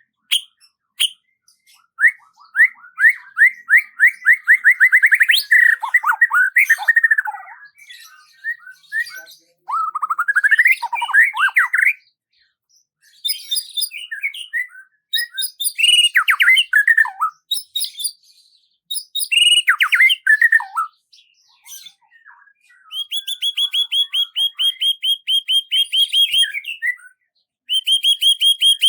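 Songbird singing in a string of separate phrases: fast trills, quick rising and falling notes, and a rapid run of repeated high notes near the end, with short pauses between phrases.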